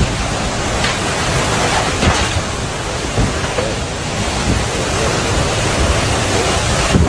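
Intense tornado wind with rain, a loud steady rush of noise.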